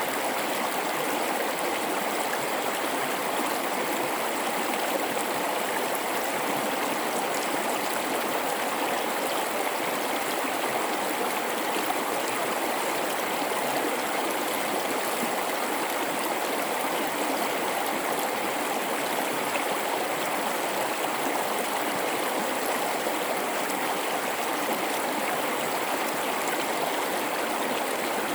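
A river flowing steadily through a gorge: an even, unbroken rush of water.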